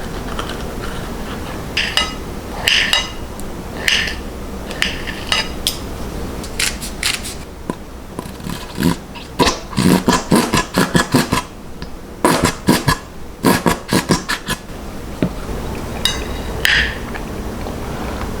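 Kitchen utensils and dishes clinking and scraping, with several single ringing clinks and a quick run of knocks about halfway through. A steady hiss runs underneath.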